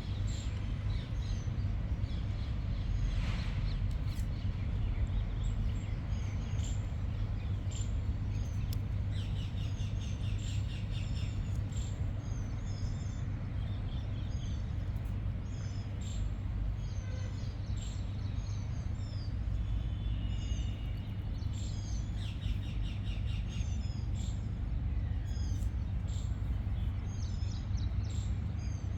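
Many small birds chirping and calling in short repeated notes over a steady low rumble.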